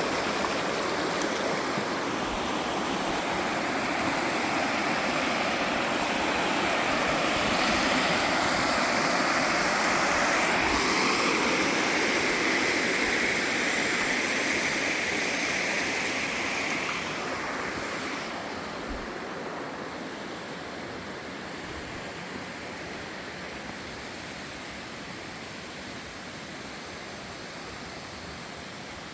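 Stream water rushing and splashing steadily, a little louder a few seconds in, then falling noticeably quieter a bit past halfway.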